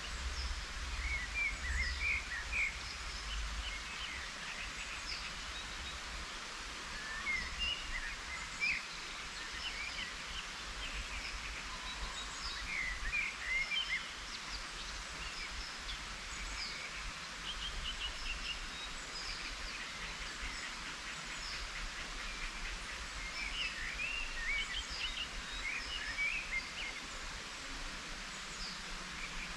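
Several songbirds chirping and singing in short, scattered phrases over a steady background hiss, with a low rumble strongest in the first few seconds.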